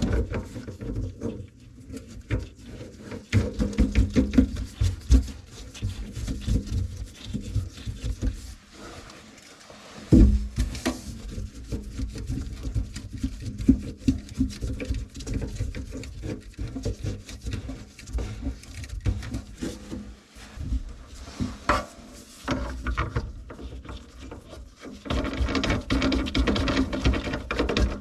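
Irregular knocks, clicks and rubbing of hand tools and faucet parts being handled under a sink during a faucet installation, with a sharp knock about ten seconds in.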